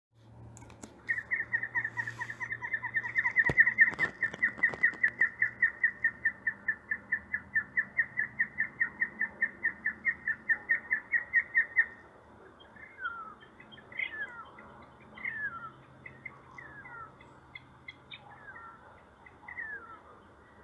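A bird calling: a long, fast, even series of short whistled notes, about five a second, that stops about twelve seconds in, followed by scattered single downslurred whistles. A sharp click sounds early in the series.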